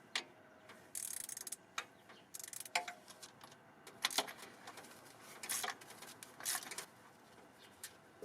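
Hand-tool work on an engine: irregular metal clicks, clinks and short rattles, about a dozen separate sounds with brief pauses between them.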